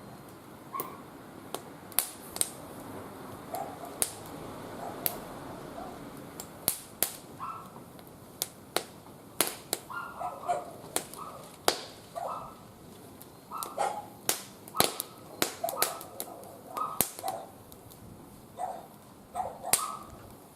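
Wood fire in a barbecue grill crackling, with many sharp, irregular pops, while a dog barks in short repeated yaps from about a third of the way in.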